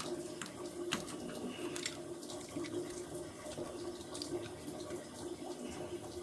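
Light clicks and small knocks of a shower valve's escutcheon plate being wiggled and slid into place over the trim, over a steady faint hum and hiss.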